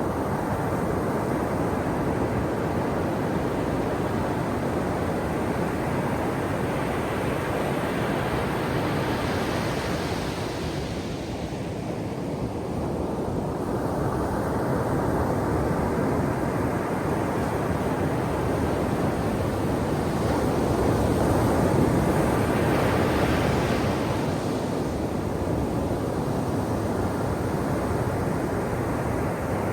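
Ocean surf washing onto a shore in a continuous rush, swelling as a wave breaks about ten seconds in and again, louder, just past twenty seconds.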